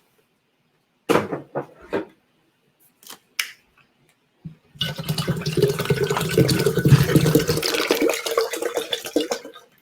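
A few clicks and knocks of handling, then about five seconds in, bottled water begins pouring from a plastic bottle into an electric kettle. It pours steadily with a fluttering glug and stops just before the end.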